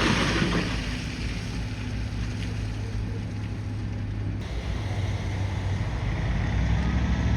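Bulldozer's diesel engine running steadily with a low hum, under a wash of noise that is loudest at the start and eases off within the first second.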